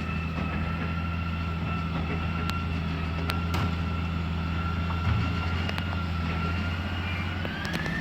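Garbage truck's diesel engine running with a steady high whine over it. Near the end the whine climbs in pitch.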